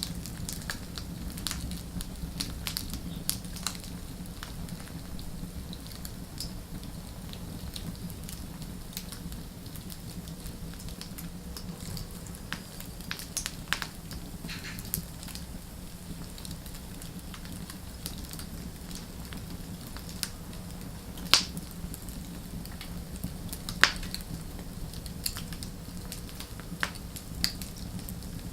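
Wood fire burning with a steady low hiss and irregular crackles and pops, two of them sharper and louder about two-thirds of the way in.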